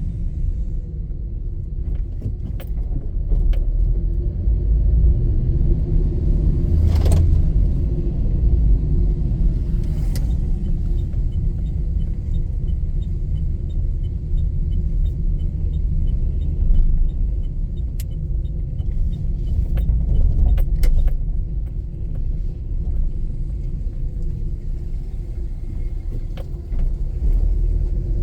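Low, steady rumble of a car driving, with scattered clicks and a short run of faint, evenly spaced ticks about halfway through.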